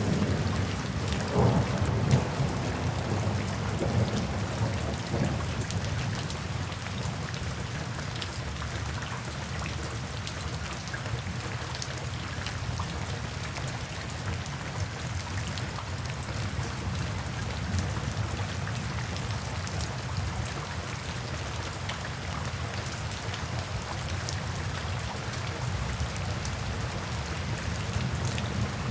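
Steady rain falling and pattering on surfaces. A low rumble of thunder swells in the first few seconds, then fades, and the rain goes on evenly.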